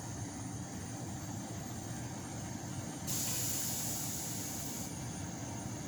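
Fire trucks' engines running with a steady low rumble; about three seconds in a loud high hiss starts and cuts off about two seconds later.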